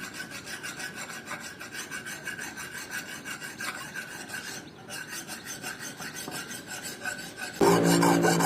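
Steel cleaver blade being worked by hand against a file or abrasive in quick back-and-forth strokes, a rasping scrape several times a second. About a second before the end a louder sound with a low hum comes in.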